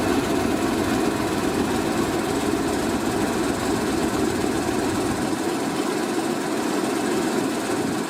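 Class 20 diesel locomotive's English Electric engine running steadily with a fast, even rattle. The deepest part of the sound fades about five seconds in.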